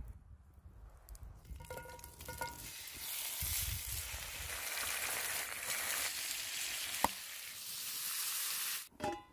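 Bacon-wrapped chicken breasts sizzling in a hot cast iron skillet, a steady hiss that starts about three seconds in and cuts off abruptly near the end. Beer is poured into the pan shortly before it stops, and there is one sharp click about seven seconds in.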